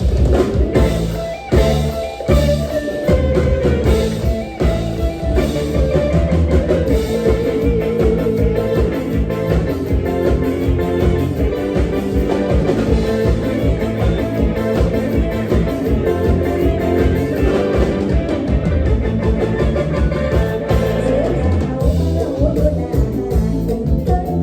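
Live Isan mor lam band playing a toei lao dance song: a steady drum-kit and bass beat under a wavering sung melody.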